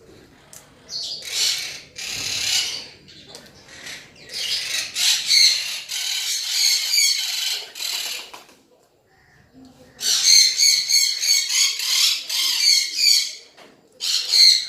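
A parrot screeching with loud, harsh, rasping calls in several bouts, the longest about four seconds, separated by short pauses.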